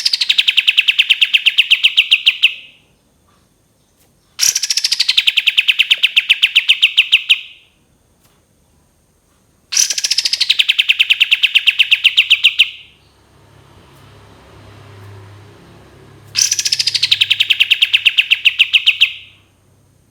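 Kapas tembak songbird singing its long 'tembakan' bursts: four bouts of a few seconds each. Each bout opens with a falling note and runs into a fast, even, rapid-fire trill of about ten loud notes a second.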